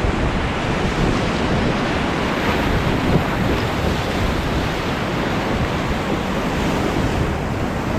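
Steady rushing noise of a fast river, with wind buffeting the microphone.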